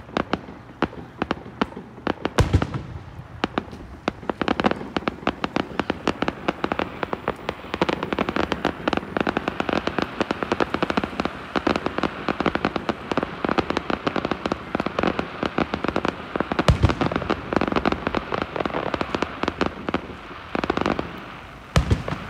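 Aerial fireworks display: a dense, rapid crackle of small pops that thickens through the middle, broken by heavy booms of shells bursting about two and a half seconds in, about three-quarters of the way through, and just before the end.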